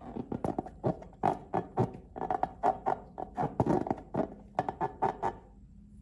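Slime being squeezed and worked by hand: a quick, irregular run of wet squelches and pops, about four a second, stopping near the end.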